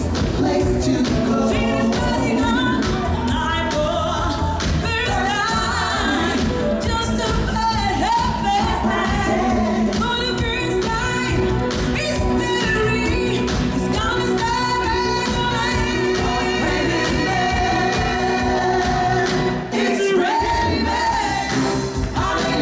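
Live pop band and lead singer performing an upbeat dance song, with steady bass and drums under a held, gliding vocal line. The bass drops out briefly near the end before the band comes back in.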